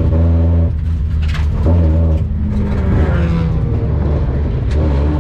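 In-car sound of a Mazda Miata race car's four-cylinder engine running under racing load, its pitch falling a couple of seconds in.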